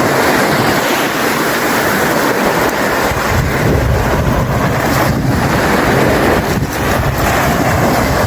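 Surf washing onto the beach, heavily mixed with wind buffeting the microphone in gusts.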